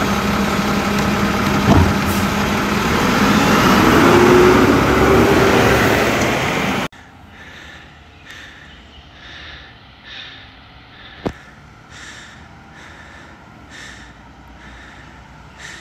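Mack LR garbage truck engine running loud, with a knock near two seconds in and a whine that rises from a little after two seconds. About seven seconds in the sound cuts off abruptly to a much quieter background with faint irregular noises and a single sharp click a few seconds later.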